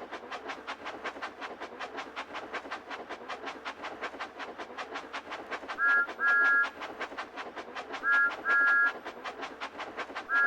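Cartoon steam train sound effect: quick, steady chuffing, about six or seven chuffs a second. A two-note train whistle toots a short-then-long pair about six seconds in, again about two seconds later, and starts once more at the very end.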